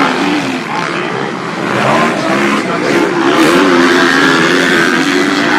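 Several motocross bike engines revving as they race, their pitch rising and falling with the throttle, more than one engine audible at once.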